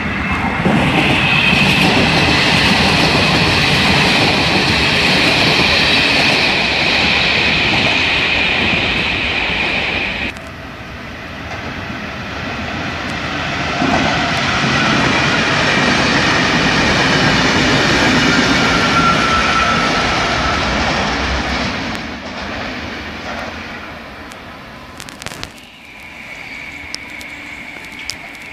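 Ferrovie Nord double-deck electric commuter trains passing at speed: a loud rumble of wheels on rail with a steady high whine, cut off abruptly about ten seconds in. A second train then passes from about fourteen seconds in and fades toward the end.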